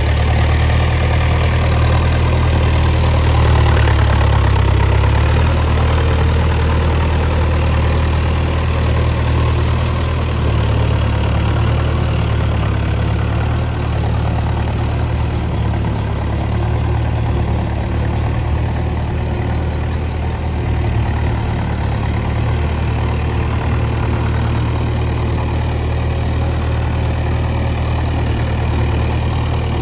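Mahindra Arjun Novo 605 DI tractor's four-cylinder diesel engine running steadily.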